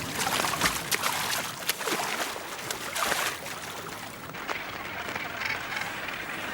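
Sea water sloshing and splashing, with a run of short splashes over the first few seconds that then settle into a steadier wash.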